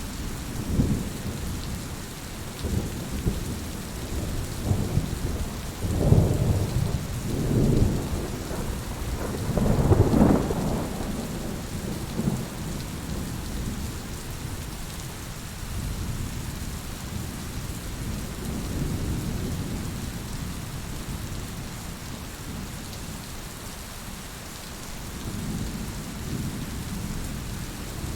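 Heavy rain falling steadily, with thunder rumbling in long low rolls. The loudest rolls come in the first half, and fainter rumbles follow later.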